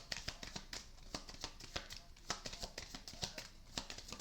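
A deck of tarot cards being shuffled: a quick, irregular run of card flicks and snaps.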